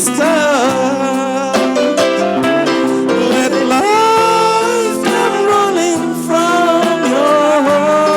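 A ballad sung over a guitar accompaniment, the voice holding long, wavering notes with no clear words.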